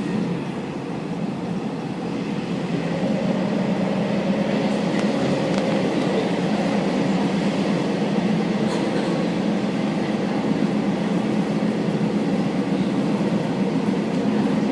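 Kazekko diesel railcar running along the track: a steady running rumble with a low engine drone, growing a little louder about two to three seconds in.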